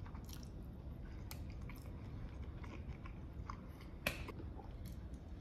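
A person chewing a mouthful of jambalaya close to the microphone, with quiet scattered mouth clicks. There is one sharper click about four seconds in.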